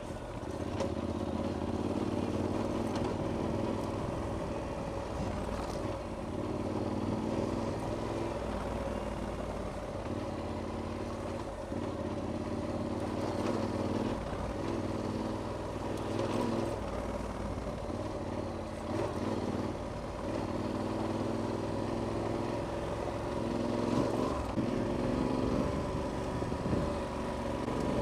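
Adventure motorcycle engine running while riding off-road, its pitch rising and falling with the throttle.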